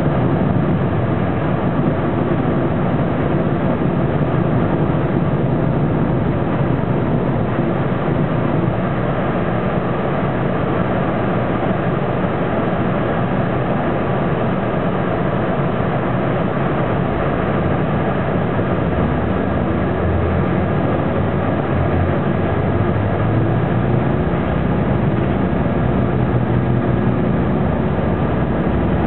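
Detroit Diesel Series 50 diesel engine of a Neoplan AN460 articulated bus running steadily, heard from inside the passenger cabin, with the air conditioning running. The low engine drone shifts in pitch in the second half.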